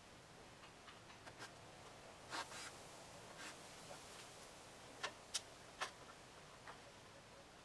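Near silence with a few faint, scattered clicks and taps, the loudest three coming close together a little past the middle.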